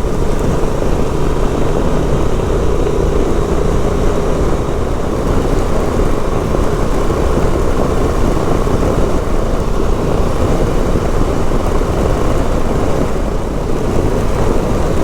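Motorcycle on the move at a steady pace: engine running under a loud, even rush of wind over the microphone.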